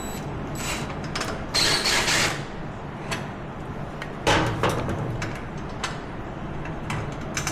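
Hand work on a quad's parts: scattered clicks and knocks, with two louder scraping, rustling bursts of a part being worked loose, over a steady low hum.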